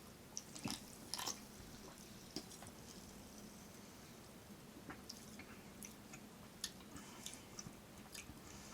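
Faint chewing of a soft mochi daifuku, with scattered small, wet mouth clicks.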